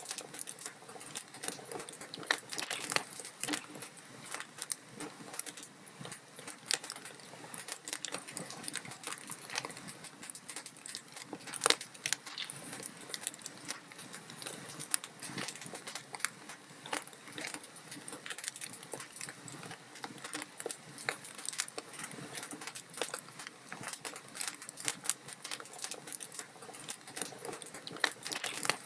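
Wood fire crackling: dense, irregular snaps and pops of burning logs over a soft hiss, with a louder pop about twelve seconds in.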